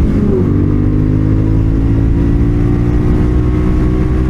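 CFMoto 450SR's parallel-twin engine running under way. Its pitch dips briefly just after the start, then holds steady, with wind and road rush underneath.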